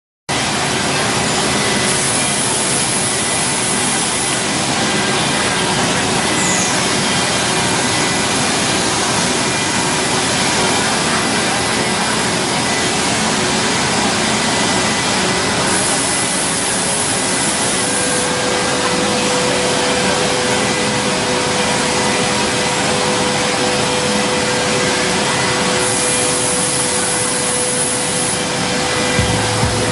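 CNC woodworking router running: a loud, steady machine noise that starts abruptly, with a hiss that brightens for a couple of seconds three times and a steady hum tone joining about halfway through.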